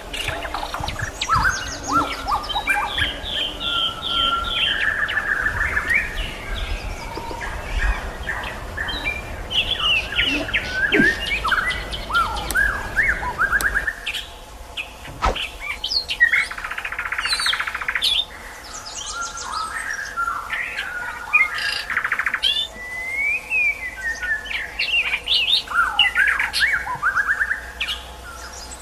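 Songbirds singing: a white-rumped shama and a sikatan londo flycatcher. The song runs on in quick, varied phrases of whistles, trills and sliding notes, with a harsh chattering burst about two-thirds of the way through.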